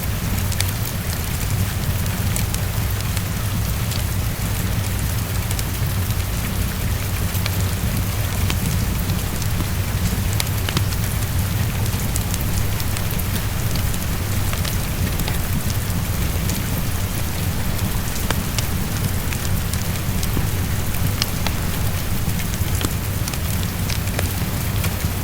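Heavy rain falling steadily against a window: a dense, even hiss over a deep steady rumble, dotted with many small ticks of individual drops.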